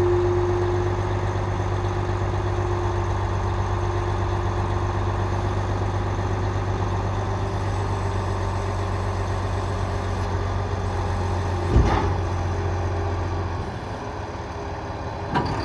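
Diesel engine of a 2018 Volvo A30G articulated dump truck idling steadily. A sharp knock comes about twelve seconds in; shortly after, the engine's low hum drops away, and a second knock comes near the end.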